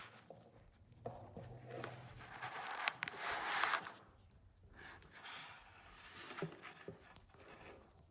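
Rustling and handling noises with scattered clicks and knocks in a small, echoing room, loudest as a burst of rustling about three seconds in.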